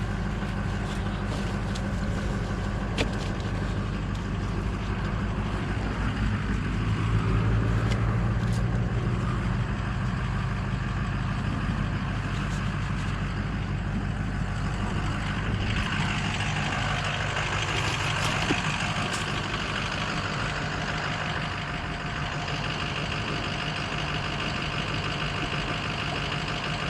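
Truck engine running steadily, rising briefly about seven seconds in and changing tone about halfway through.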